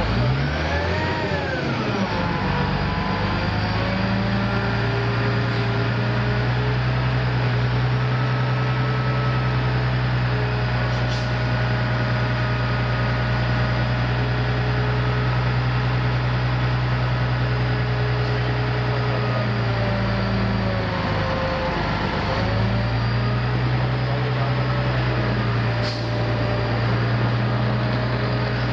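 Diesel engine of a heavy-haul transport vehicle running steadily under a low, even note. Its revs rise and fall back at the very start, and dip briefly and recover about two-thirds of the way through.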